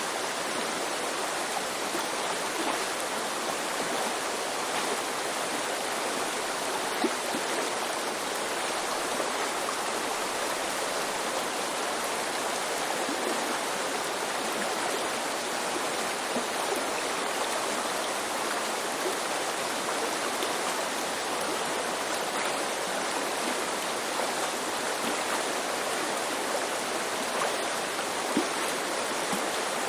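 Shallow mountain river babbling over rocks: a steady rushing of water, with a few brief louder splashes.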